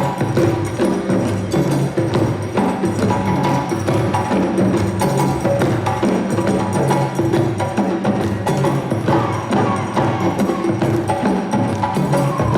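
African-style percussion music with a steady, driving rhythm. Drums are joined by a melody of bright wooden strikes.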